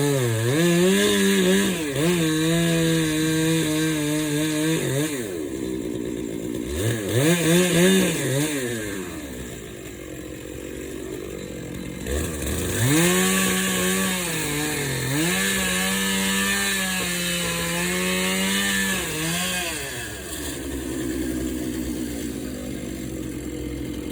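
Chainsaw running and cutting through oak logs, its engine note sagging under load in the cut and rising again as it frees up, with a couple of quick revs partway through; near the end it runs quieter.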